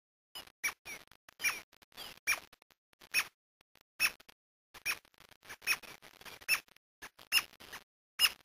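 Brasília tapaculo (Scytalopus novacapitalis) calling: a series of short, sharp notes, each falling in pitch. The strongest notes come about once every second, with fainter notes in between.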